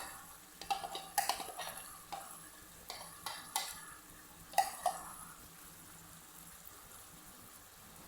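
A utensil knocking and scraping against the pan while curry paste is stirred into frying chicken, with a light sizzle underneath. The knocks stop about five seconds in, leaving a faint steady sizzle.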